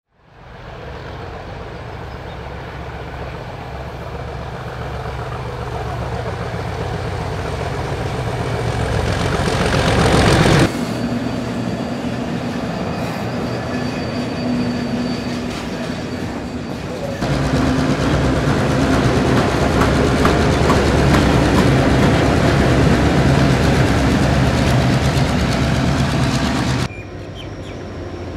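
Diesel-electric freight locomotives passing, their engines running with a steady low note under the noise of wheels on rails. The first train builds up to a loud peak about ten seconds in, then the sound cuts abruptly to other passing trains, twice.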